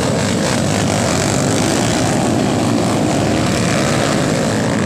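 Underbone motorcycle engines running hard as the bikes race around a motocross track, a steady loud buzzing drone.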